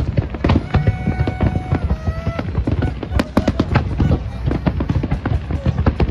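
Fireworks display bursting in quick succession: a dense run of sharp bangs and crackles over a steady low rumble. In the first half a couple of brief held tones rise above it.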